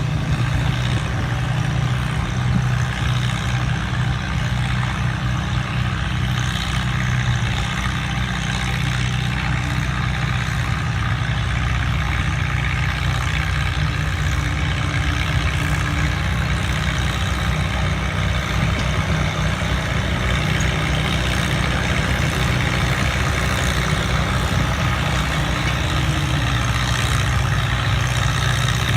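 Minneapolis-Moline farm tractor engine running steadily at an unchanging pitch, its low engine note the strongest part of the sound.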